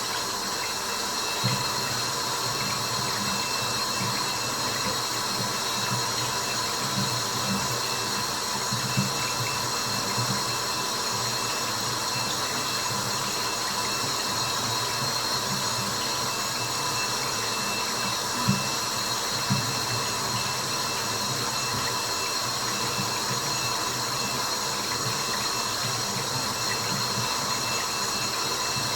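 Steady white-noise hiss blended with running water, with a handful of short, louder water drops standing out now and then.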